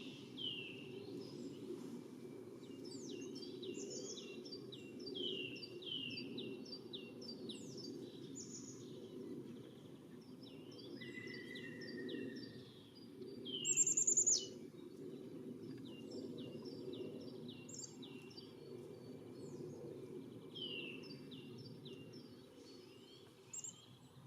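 Small songbirds chirping and calling in many short, quick, downward-sliding high notes that overlap and repeat, with a louder high call about 14 seconds in, over a steady low background rumble.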